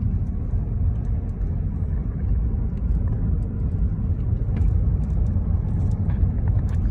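Steady low road rumble of a car driving slowly, heard from inside the cabin, with a few faint light ticks.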